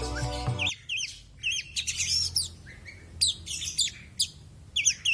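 Oriental magpie-robin (kacer) song: short phrases of quick, high whistled and chattering notes repeated with brief gaps. Background music cuts off under a second in.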